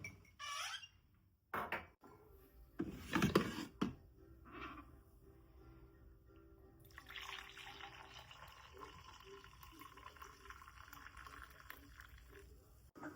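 A few brief knocks and clatters of household handling, then water starts running steadily, as from a tap, about seven seconds in.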